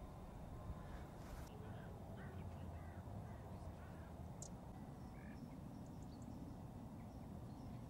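Faint open-air ambience: a low steady rumble with several short, distant bird calls scattered through the first two-thirds.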